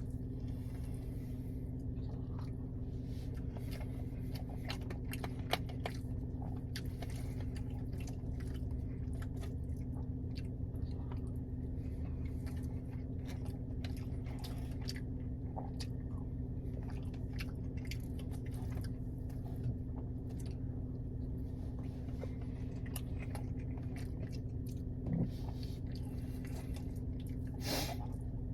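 Close-miked chewing and biting of food, with soft wet mouth sounds and scattered small clicks, over a steady low hum.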